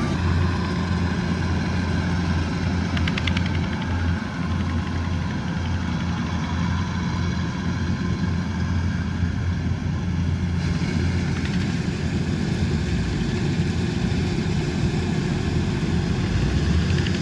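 Kubota DC108X combine harvester's diesel engine running steadily, a constant low drone.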